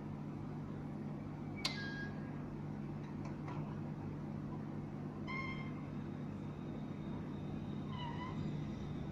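A cat meowing twice, short pitched calls a few seconds apart, over a steady low hum, with a sharp click about a second and a half in.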